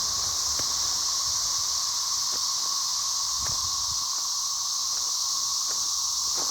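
Periodical cicadas chorusing: a loud, steady, high-pitched drone that never lets up, with a lower steady whirr beneath it. A few faint clicks sound through it.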